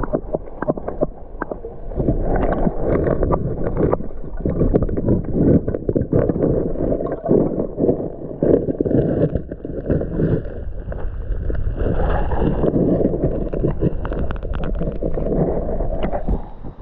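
Water sloshing and gurgling right against the camera, dipped at the surface for a bass's underwater release. The splashing comes in irregular surges, muffled and heavy, with a short lull about two seconds in.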